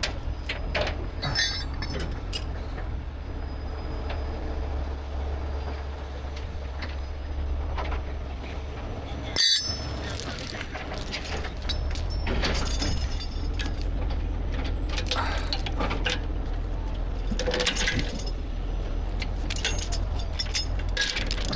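Heavy rotator tow truck's diesel engine running steadily at idle, with steel recovery chains and hooks clinking and clanking now and then as they are rigged.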